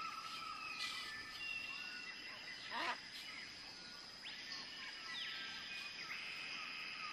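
Birds chirping and calling, with one sharp falling call about three seconds in and a run of arched chirps in the second half, over a steady high-pitched drone.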